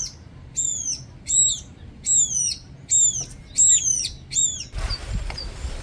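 A small bird calling over and over, seven short high notes that fall in pitch, roughly one every three-quarters of a second. Near the end the calls stop and a low rumble takes over, with fainter chirps.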